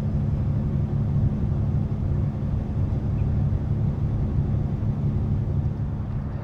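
Steady drone of a semi-truck's diesel engine and road noise, heard from inside the cab while cruising at an even speed.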